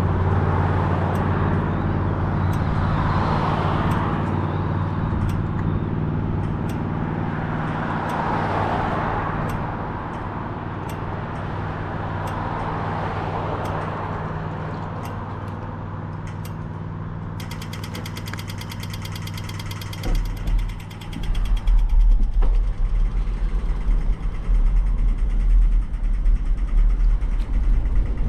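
Road traffic: a steady engine hum with cars swelling past every few seconds. From about 20 s in, wind buffets the microphone with heavy low rumbling.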